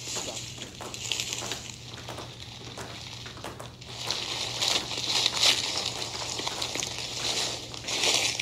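Several people's sneakers stepping, stamping and scuffing on a hard tiled floor while marching and high-stepping in place: an irregular patter of footfalls and scuffs, louder from about four seconds in. A steady low hum runs underneath.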